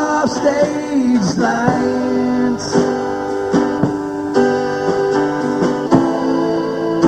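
Live band music: strummed guitar with long held notes, some of which bend down in pitch.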